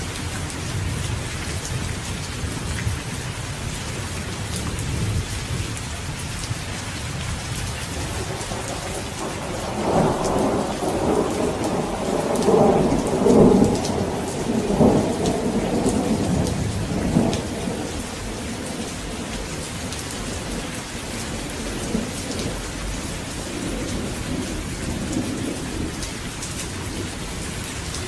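Steady rain falling, with thunder: a long rumble builds about a third of the way in, is loudest near the middle, then fades, and a softer rumble follows near the end.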